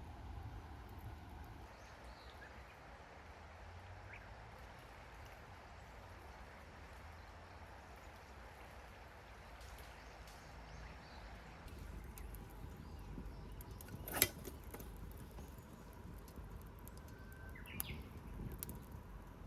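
Quiet outdoor woodland ambience with a low, even rumble, one sharp click about fourteen seconds in, and faint short bird chirps near the end.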